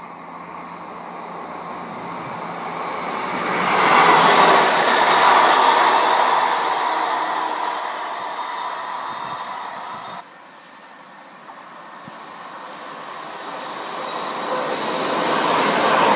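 Electric multiple-unit passenger train on the line, with wheel and running noise and a steady whine. The noise swells, then fades and drops off suddenly about ten seconds in. It builds again as the unit draws near and passes close by.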